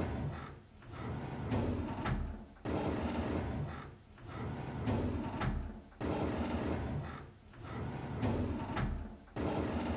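A drawer sliding open over and over, each slide a run of scraping noise about a second long, some starting with a sharp knock.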